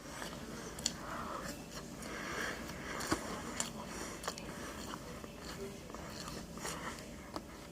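Close-up eating sounds: soft chewing and biting with scattered small clicks and breathing through the nose.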